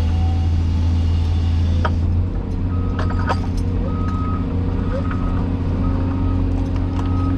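Cat 336E excavator's diesel engine running steadily, its low drone shifting about two seconds in. From about three seconds in, a reversing alarm beeps roughly once a second.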